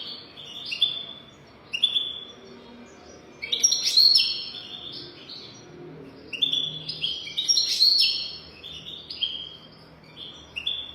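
European goldfinch singing: a run of short, high chirping notes that breaks into quicker, louder twittering flurries twice, about a third of the way in and again past the middle.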